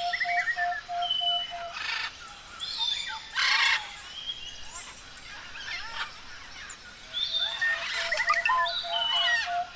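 Several forest birds calling at once. A rapid string of even whistled notes repeats at the start and again near the end, among chirps, trills and rising whistles, with short harsh rasping calls about two and three and a half seconds in.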